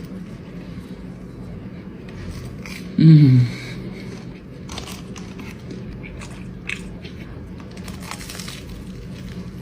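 Biting into and chewing a fried Korean corn dog coated in cheese powder, with scattered crisp crunches close to the microphone. A brief hum of the eater's voice, rising then falling in pitch, about three seconds in.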